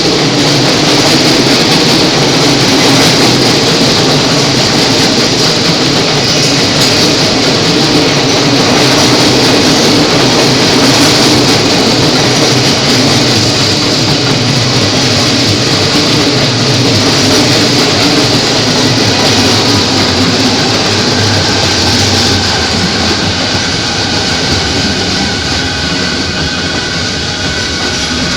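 Electric commuter train running along the station platform at close range, loud and steady; over the last several seconds it eases a little and a faint steady whine comes in.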